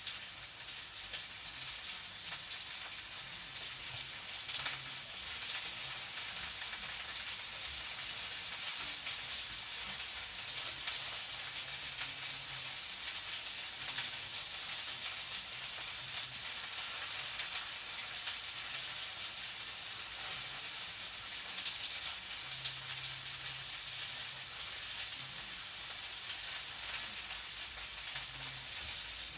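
Food frying in a pan: a steady sizzle with fine crackling.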